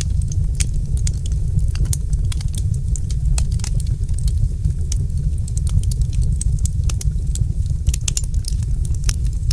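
Wood fire crackling in a fireplace: many irregular sharp pops and snaps, several a second, over a steady low rumble.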